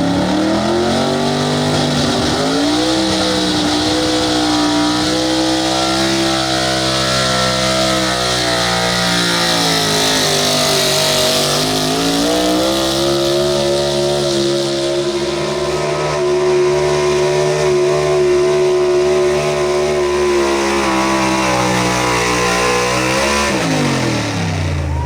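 Pro stock 4x4 pulling truck's engine revving up and holding at high revs under load, sagging briefly about halfway and climbing back, then dropping off sharply near the end as the driver lets off.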